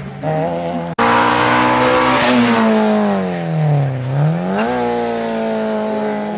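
Rally car engine at high revs. Its pitch falls steadily as the car slows into a bend, then climbs sharply as it accelerates away and settles at a steady pitch. The sound changes abruptly at an edit about a second in.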